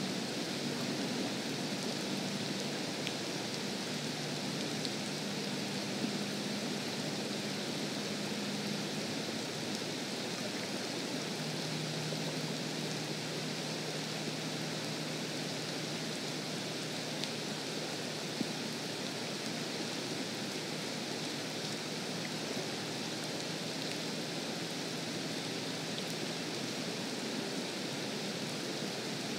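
Steady rain falling on a lake surface and the grass around it, an even hiss, with a faint low hum underneath.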